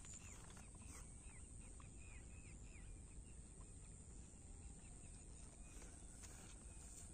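Faint bird chirps: a quick run of about a dozen short calls in the first three seconds, then only faint outdoor background with a steady high tone.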